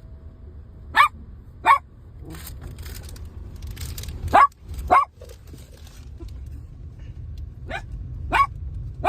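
A dog barking: seven short barks, mostly in pairs, over a steady low rumble.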